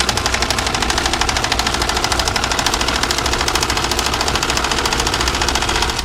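Domestic (non-industrial) electric sewing machine running steadily at speed, its needle stitching in a fast, even rhythm of about a dozen stitches a second, then stopping at the end.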